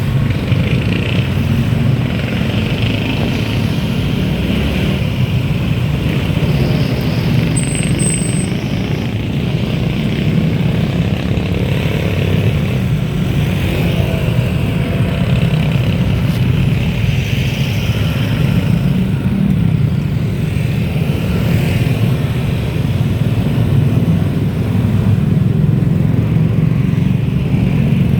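Steady low rumble of riding a bike, wind and road noise on the microphone, with no letup.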